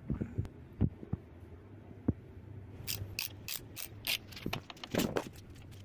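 Irregular clicks and knocks of hand-tool work on a motorcycle, over a steady low hum. The knocks are scattered early on, and a quicker run of sharp clicks starts about halfway through.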